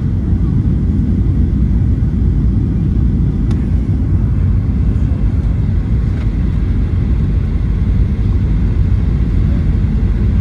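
Boeing 737-800 passenger cabin noise: a steady, deep rumble of the engines and rushing air.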